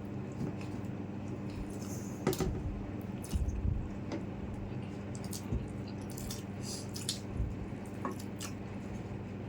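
Wet eating sounds as people eat rice and chicken curry: scattered smacks and sticky, squishy clicks of chewing and handling food, with a few soft thuds, over a faint steady hum.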